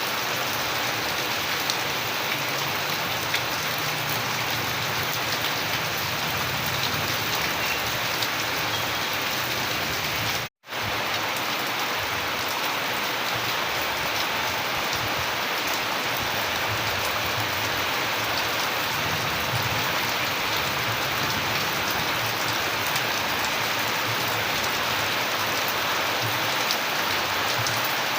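Steady rain falling, with individual drops ticking through the even hiss. The sound cuts out completely for a split second about ten seconds in, then resumes unchanged.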